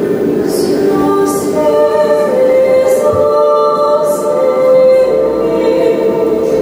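Slow music of long, overlapping held notes, wordless and voice-like, in the manner of female singing, with a few short airy swishes over them.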